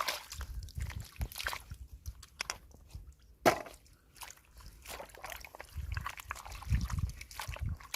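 Shallow floodwater sloshing and splashing as someone works through it by hand, with irregular small clicks and one sharper knock about three and a half seconds in.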